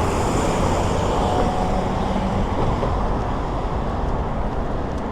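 Steady road traffic noise, with a faint held hum from a passing vehicle in the first couple of seconds.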